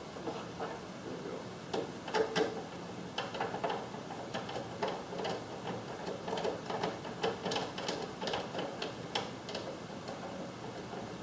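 Irregular small clicks, taps and rattles of plastic and metal parts being handled while working on a garage door opener's circuit board and housing, loudest around two seconds in.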